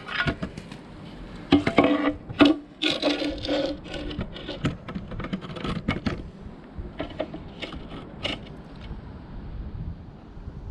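Irregular scrapes and knocks of a paving slab being handled and shifted on the patio, busiest in the first half and lighter near the end.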